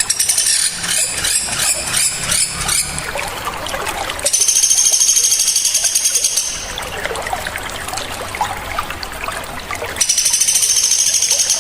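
Small songbirds calling sharp and loud in high-pitched trills: a choppy rapid trill at first, then a dense buzzy trill for about two seconds, repeated near the end, over a background of trickling water.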